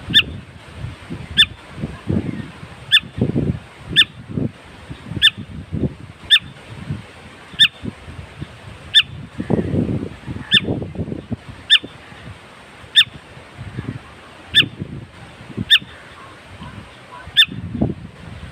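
A bird repeating one short, sharp call about every second and a half, very evenly, with lower, irregular sounds underneath.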